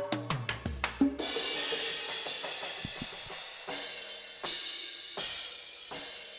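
NUX DM8 electronic drum kit played: a quick fill down the toms, each stroke falling in pitch, ends on a low tom hit about a second in. A cymbal crash follows, and its wash rings on under a slow beat of drum hits.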